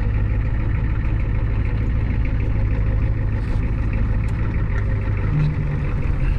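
Diesel vehicle engine running steadily at low speed while the vehicle is driven slowly into position.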